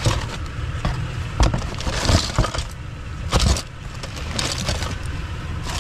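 Hard small objects clattering and clicking together in irregular knocks as hands rummage through a box of salvaged electrical switches, plugs and fittings.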